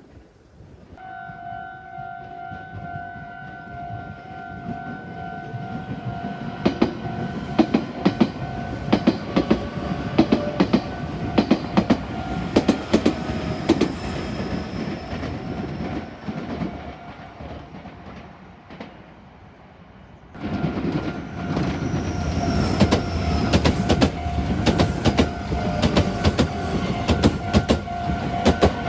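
Japanese level-crossing alarm ringing in a steady repeated two-tone pattern, starting about a second in. A Meitetsu train passes over the crossing with a fast clatter of wheels over rail joints. After a short lull about two-thirds of the way through, a second train passes, clattering, while the alarm keeps ringing.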